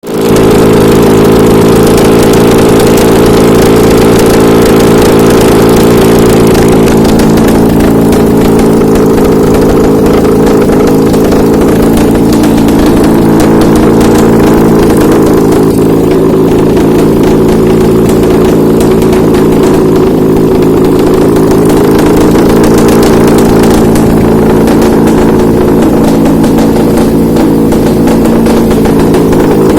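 Honda K24W 2.4-litre four-cylinder petrol engine running steadily at idle on a test stand during a bench check of the used engine.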